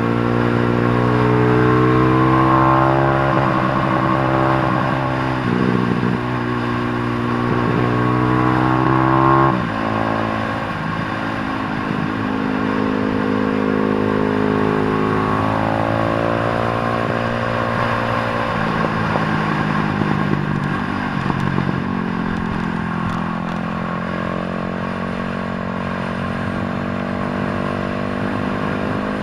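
A 150 cc motorcycle engine running under load, its note rising and falling as the revs change, with a sudden drop in revs about nine seconds in.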